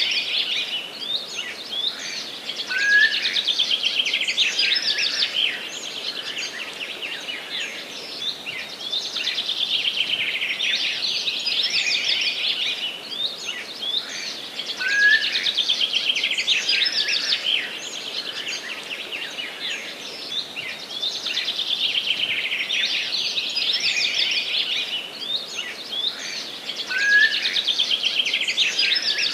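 Songbirds singing in a dense, continuous chorus of chirps and trills. Busier, louder stretches return about every twelve seconds.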